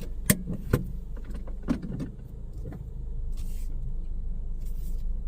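A car's engine running low and steady, heard from inside the cabin as the car creeps forward into the wash bay. There are a couple of sharp clicks in the first second.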